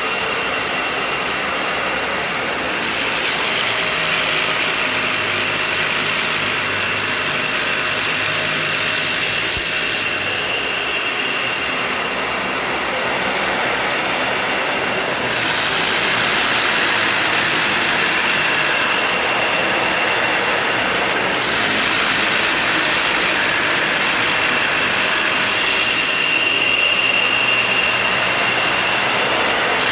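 Vacuum cleaner running over a shag rug, a steady motor noise with a high whine whose sound shifts every few seconds as it is worked across the pile. A single sharp click about ten seconds in.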